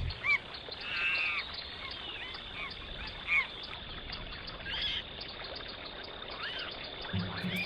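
Wild animal calls in a forest: short high chirps, one here and there and a few overlapping, over a steady faint hiss. A longer, layered call comes about a second in.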